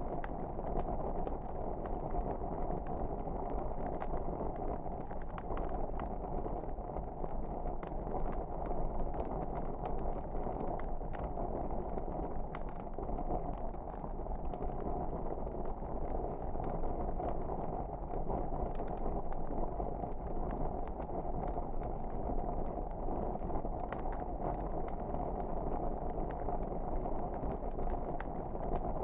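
Fireplace fire burning steadily: a low, even rumble of flames with small crackles and pops scattered throughout.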